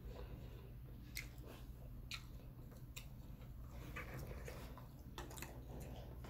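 Faint close-up eating sounds: chewing and wet mouth smacks, with a few short sharp clicks scattered through, as she eats mashed sweet potato and fried fish.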